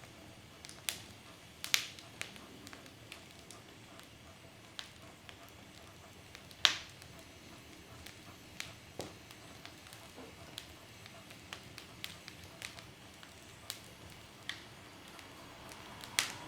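Wood fire crackling in a fireplace: irregular sharp pops and snaps from the burning logs over a faint steady hiss, with a few louder pops standing out.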